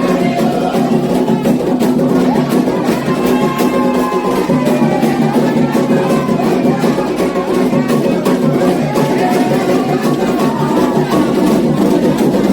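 Candomblé ritual music: atabaque hand drums beating a dense, steady rhythm with a bell-like percussion part, under voices singing a chant.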